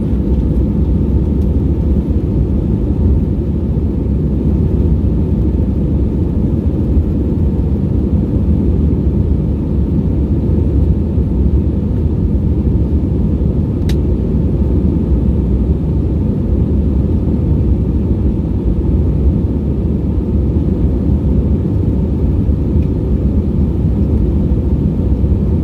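Steady cabin rumble of an Airbus A320-232, the noise of its IAE V2500 engines and the airflow heard inside the passenger cabin. There is one faint click about halfway through.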